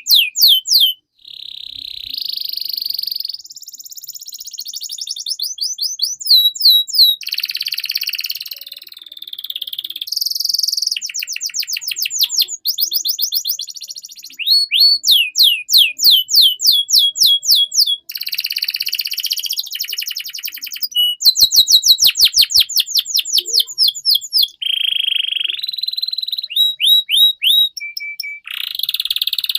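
Domestic canary in full song: a long unbroken run of rapid trills of repeated down-slurred notes, changing to a new trill every second or two, with buzzy rolls between.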